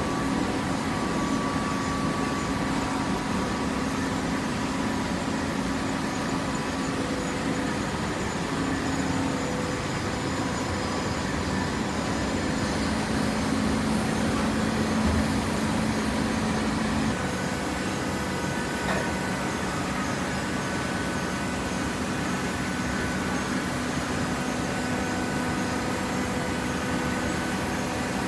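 Horizontal hydraulic waste-paper baler running: a steady machine hum of its motor and hydraulic pump, whose low tone shifts about 17 seconds in.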